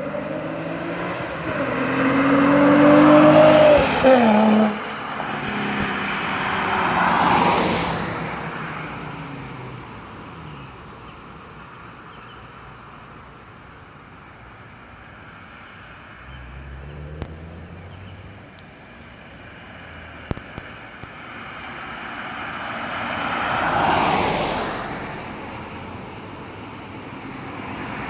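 Nissan 350Z's V6, fitted with a Greddy SE exhaust and Berk test pipes, revving hard as the car accelerates past, its note rising for about four seconds and then cutting off abruptly. A swell of passing noise follows and fades. Near the end a second passing swell rises and falls, with a steady high-pitched whine in the background throughout.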